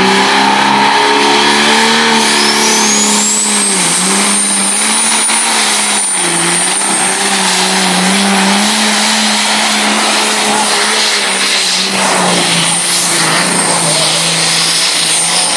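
Pulling tractor's engine running hard under load on a pull, loud and steady, with a high whine that rises over the first few seconds and then holds. The engine note dips briefly twice, about four and six seconds in.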